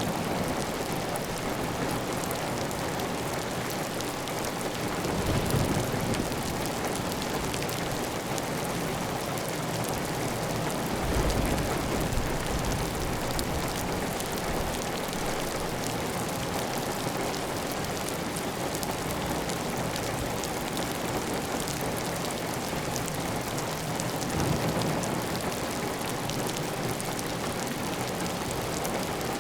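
Heavy rain falling steadily on a clay-tile roof, with water running off the roof edge; the sound swells briefly in the low end a few times.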